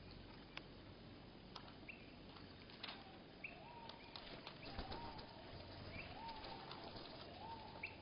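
Songbird calls at a feeder slowed to one-third speed, so they sound low and drawn-out. From about three and a half seconds in, a note that slides up and then holds repeats several times, over short higher chirps and scattered sharp clicks.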